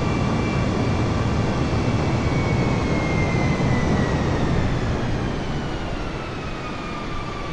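Jet airliner's engines running at high power, a steady rushing noise with a whine that slowly falls in pitch. The noise eases a little in the last couple of seconds.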